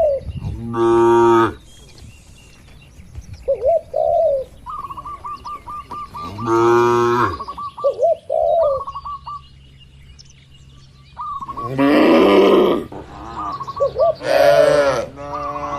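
Cattle mooing: four long moos, the last two close together, with birds chirping between them.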